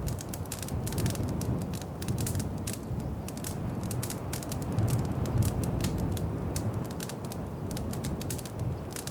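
Wood fire crackling in a fireplace: many irregular small pops and snaps over a low, steady rumble.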